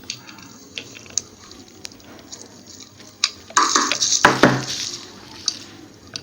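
Metal tool clinks and knocks as a 13mm nut is worked loose on a car starter motor, with scattered small clicks and a louder clatter about three and a half seconds in.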